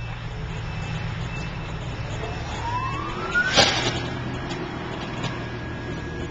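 Fire apparatus diesel engine running steadily with a low rumble. About two seconds in, a faint siren tone rises in pitch for about a second and a half and ends in a sharp knock.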